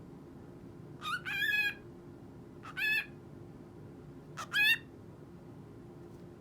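Cockatiel giving three short, harsh pitched calls, the first longest and the last loudest.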